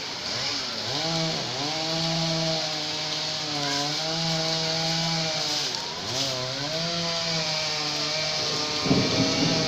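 Two-stroke chainsaw running at high revs, its pitch dropping twice as the throttle is eased and climbing back, as it cuts up a fallen tree. A rougher, noisier rumble joins near the end.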